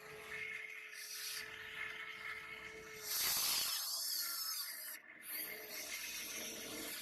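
A toy remote-controlled excavator digging, with a rough scraping and rubbing noise and a faint steady whine of its small motor for the first three seconds. There is a louder hiss about three seconds in and a short break near five seconds.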